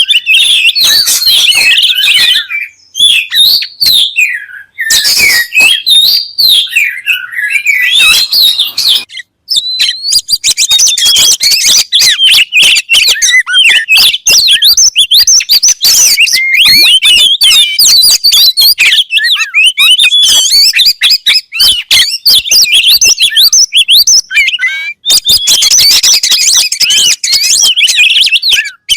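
Oriental magpie-robin (kacer) singing loudly: a fast, varied run of whistles, warbles and rapid trills, broken by short pauses about 3, 5 and 9 seconds in.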